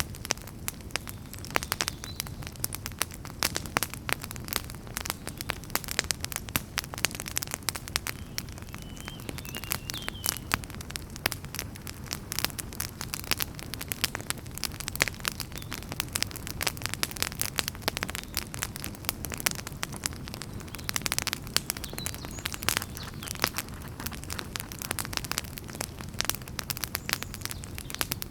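Wood fire burning in a fireplace, crackling with a dense, irregular stream of sharp pops and snaps over a low, steady rumble of the flames.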